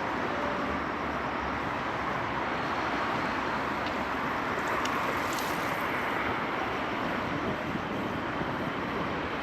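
Steady traffic noise from passing cars, an even wash with no breaks.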